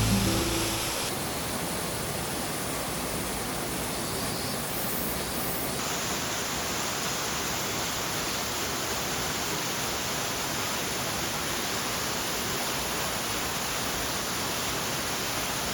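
Small waterfall, a steady rush of falling water; its tone shifts slightly about a second in and again about six seconds in.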